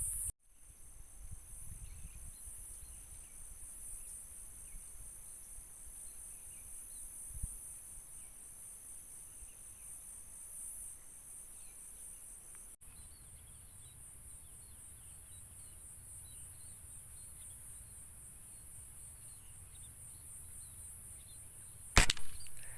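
Steady, high pulsing chorus of crickets and other insects, with faint chirps of small birds. Near the end comes one sharp crack of a PCP air rifle shot.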